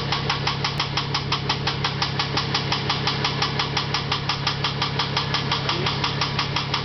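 Nissan VG-series V6 idling with a loud, fast, even rod knock like a sewing machine, about six or seven knocks a second over the engine's steady hum. The owner takes it for connecting-rod bearings knocked out, probably on cylinders 3 and 5, from little or no oil pressure at the crank after fuel washed past the rings into the oil.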